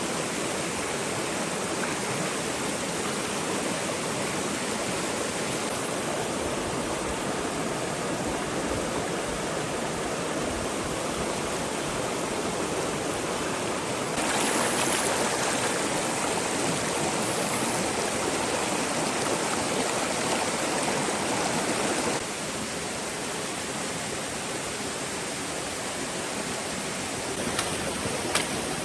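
Stream water flowing steadily, with a louder stretch from about halfway through to three-quarters through. A few faint clicks near the end.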